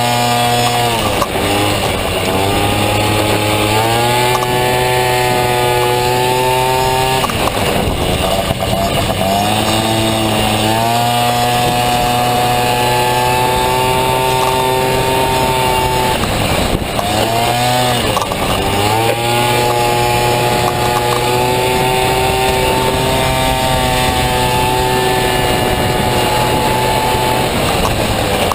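Small two-stroke scooter engine (a Honda Dio engine in a Honda Motocompo) running at high revs under race load. Its pitch dips several times as the throttle is eased and climbs back each time the engine pulls again.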